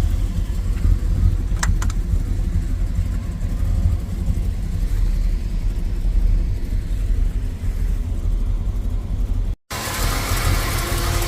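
1950 Chevrolet Deluxe's inline-six engine running at a steady idle, a low rumble, with a short click about a second and a half in. The sound breaks off briefly about nine and a half seconds in and resumes brighter.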